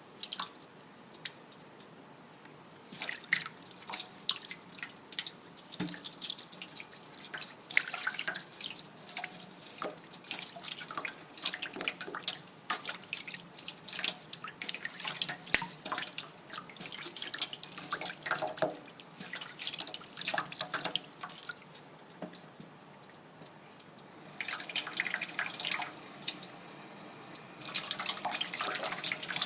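Tap water running into a kitchen sink, splashing and dripping in irregular spatters, turning to a steadier stream of running water near the end.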